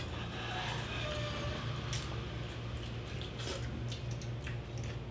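Faint wet chewing and mouth smacks from people eating roast pig meat by hand, with scattered small clicks, over a steady low hum.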